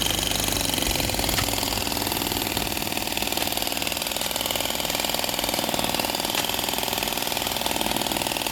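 A small engine running steadily, a continuous fast, even rattle with no change in speed.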